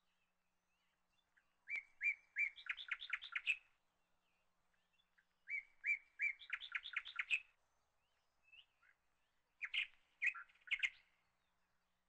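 A songbird singing three short phrases about four seconds apart, each a few even chirps followed by a quick run of climbing notes.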